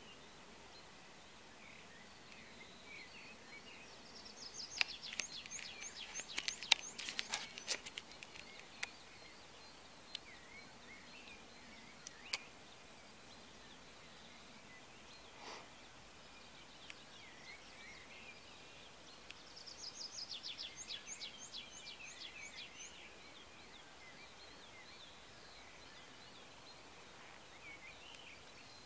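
A songbird sings a short phrase of quick, high repeated notes twice, about five seconds in and again about twenty seconds in, over faint outdoor ambience with other birds chirping faintly. During the first song comes a cluster of sharp clicks and taps, the loudest sounds, followed by a few single clicks.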